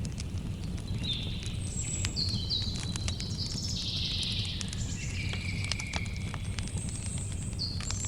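Campfire crackling, with many sharp pops and snaps over a steady low rumble of burning, while birds give short high calls several times, some dropping in pitch.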